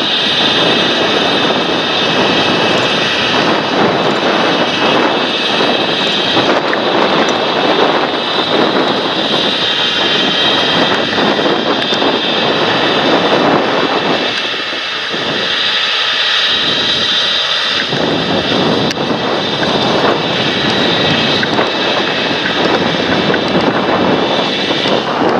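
Large John Deere tractor engine working hard in the field, a steady loud run with a high whine over it; the low rumble eases briefly about two-thirds of the way through.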